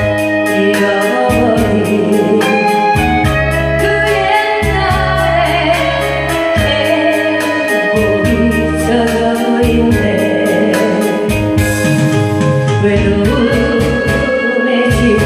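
Backing music with an electronic organ-style keyboard melody over sustained bass notes and a steady drum-machine beat, playing as an instrumental break between sung lines.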